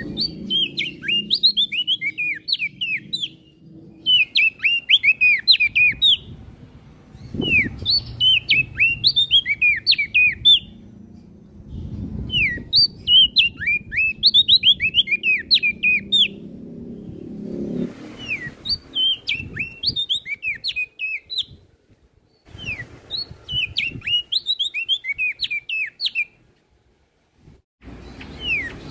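A prenjak daun singing in repeated bouts of rapid, high, sliding chirps, six bursts of a few seconds each with short pauses between.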